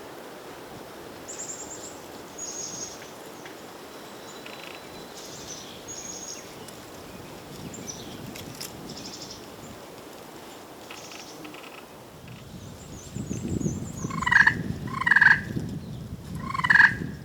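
Small songbirds chirp high and thinly, then three loud turkey calls come near the end, each falling in pitch.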